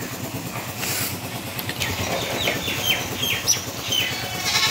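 A small bird chirps several times in short, quick, falling notes over a steady low engine-like rumble, with a short click about a second in.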